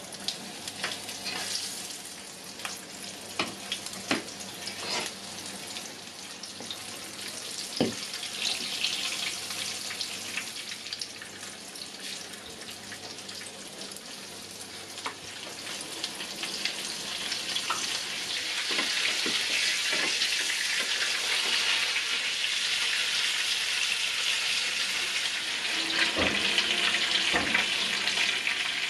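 Batter-coated eggplant slices topped with minced meat sizzling in hot oil in a frying pan, with a few light taps as slices are laid in. The sizzle grows louder and fuller about two-thirds of the way through as the pan fills.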